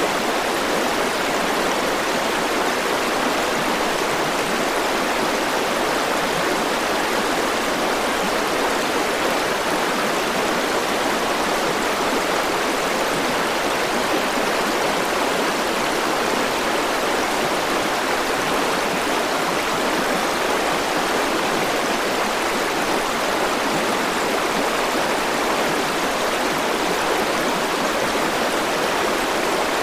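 River water flowing and rushing steadily over stones, an even, unbroken rush.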